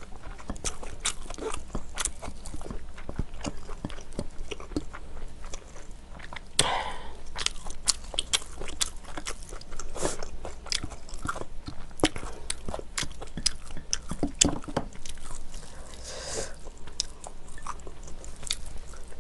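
Close-miked chewing and biting of food: many irregular small wet crunches and mouth clicks, with a couple of louder, longer rushes of noise about a third of the way in and again near the end.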